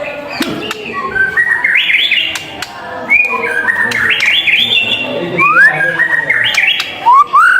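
White-rumped shama singing: a fast, varied run of short, rising whistled notes, one phrase after another.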